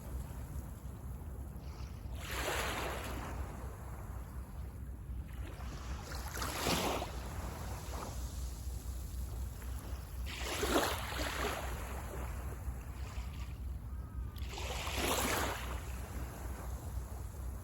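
Small waves breaking on a sandy beach, four times about four seconds apart, each a short wash of surf. A steady low rumble runs underneath.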